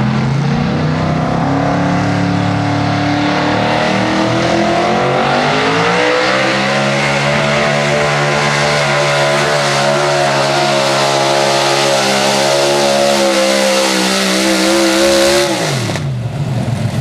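Open-class 4x4 pulling truck's engine running loud at full throttle under load: the revs climb in two steps, hold high and waver for about ten seconds, then drop off sharply near the end as the throttle is released.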